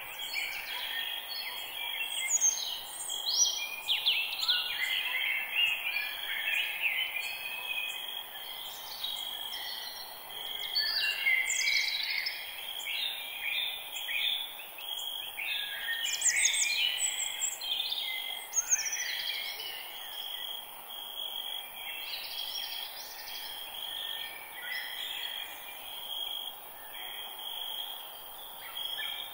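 Forest birdsong: several birds singing at once in overlapping chirps, trills and quick descending notes. Under them runs a steady high-pitched insect drone.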